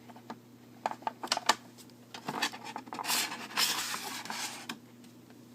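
Cardboard toy packaging being handled and turned over: a string of small clicks and knocks, then scraping and rubbing for a couple of seconds.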